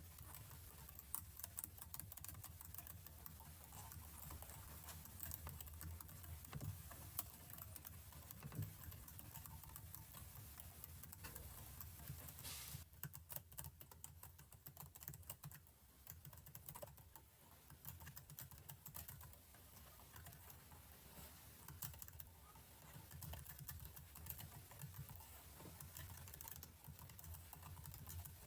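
Faint computer keyboard typing: a run of soft, irregular key clicks.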